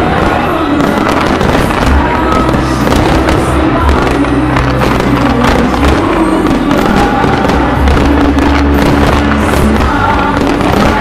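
Firework shells and comets bursting and crackling in quick, overlapping succession, over loud music that sustains steady notes beneath them.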